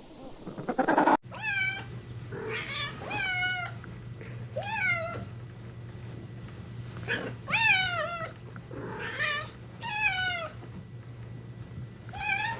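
Domestic cat meowing repeatedly, about eight separate meows, each with a bending pitch, over a low steady hum. A different loud sound cuts off abruptly about a second in.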